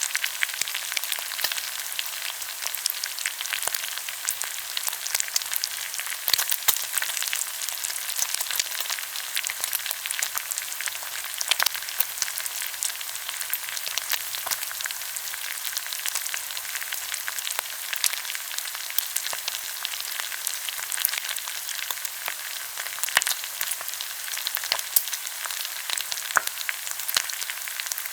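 Pork belly sizzling as it grills in its own fat, a steady crackle with frequent sharp pops.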